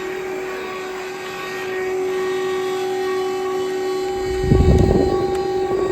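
Cordless stick vacuum cleaner running with a steady high motor whine, with a brief louder rough rumble about four and a half seconds in.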